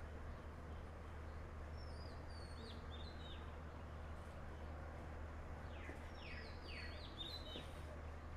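Birds chirping: short, high, falling calls in two bouts, about two seconds in and again about six seconds in, over a low steady hum.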